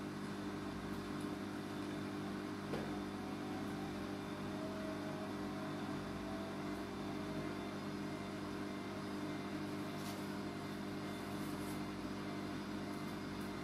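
Siemens washing machine spinning: a steady hum of the motor and turning drum, with several held tones.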